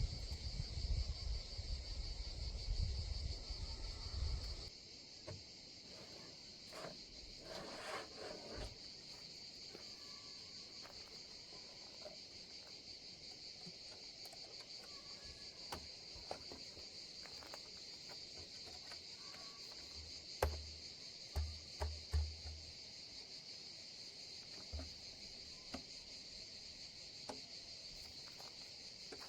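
Steady high-pitched chorus of crickets. A low rumble is heard for the first few seconds, and scattered light clicks and a few soft low thumps come about two-thirds of the way in.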